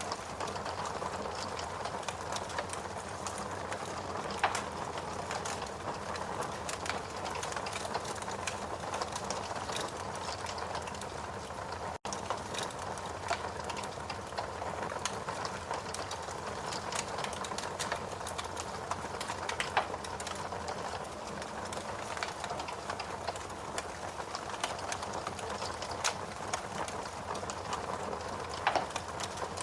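Steady rain mixed with wood burning in a fireplace: an even wash of noise with scattered sharp crackles and pops from the fire. The sound drops out very briefly about twelve seconds in.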